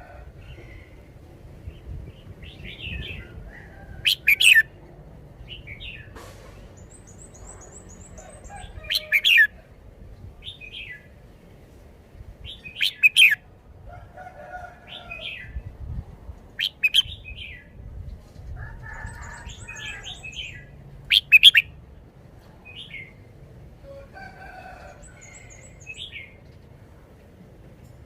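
Red-whiskered bulbul singing short, loud whistled phrases about every four seconds, with softer chattering calls in between.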